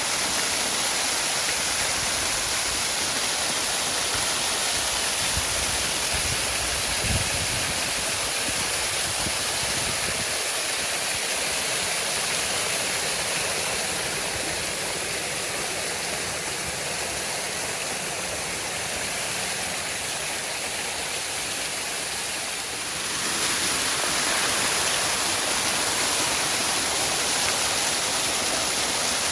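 Waterfall: a steady rush of falling water, with a brief low thump about seven seconds in. The rush grows slightly quieter, then steps back up sharply a few seconds before the end.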